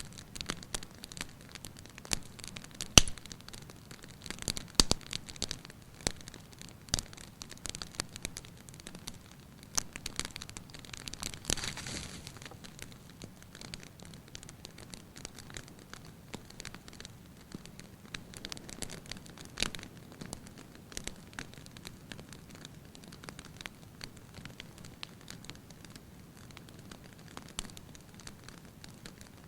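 Fire in an open hearth crackling and popping irregularly, with one sharp loud pop about three seconds in and a brief hissing swell around twelve seconds.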